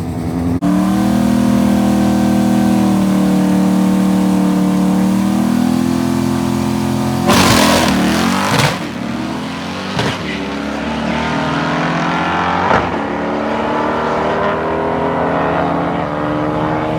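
Drag car engine pulling hard down the strip: held at steady revs at first, then accelerating with rising pitch, broken by gear changes about seven, ten and thirteen seconds in.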